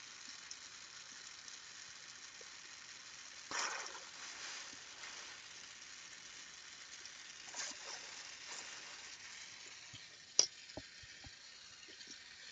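Carlisle glassworking torch flame hissing steadily, with a brief louder rush about three and a half seconds in and a single sharp click about ten seconds in.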